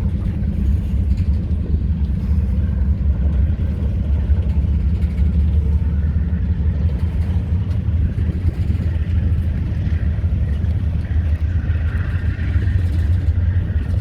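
Pan Am Railways freight train running, a loud, steady low rumble.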